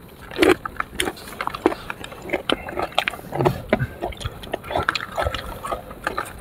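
Close-up eating of sour fruit: irregular short wet crunches, bites and lip smacks.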